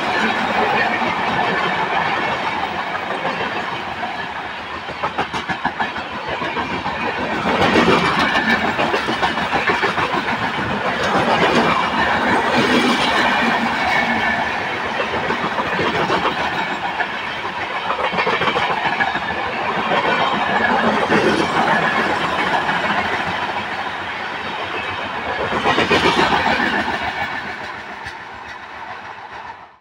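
Indian Railways express train passing at high speed over a small rail bridge: a continuous rumble and rapid clatter of wheels over the rail joints, dying away near the end.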